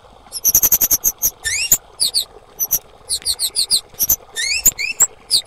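Female kemade bird calling: quick bursts of sharp, very high-pitched chips, several of them rising notes that sweep upward, with short pauses between the bursts.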